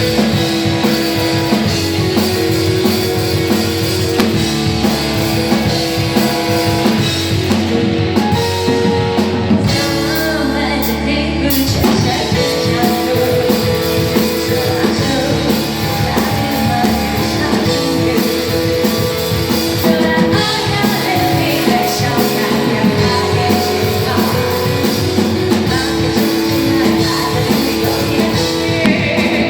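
Rock band playing: drum kit, electric guitar and a singing voice. The drums briefly thin out about ten seconds in.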